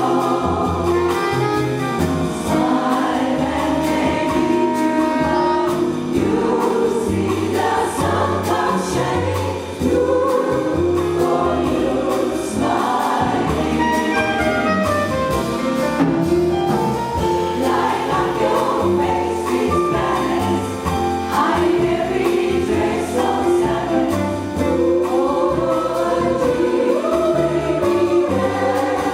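A jazz vocal chorus singing in harmony, backed by a small jazz band with bass and drums.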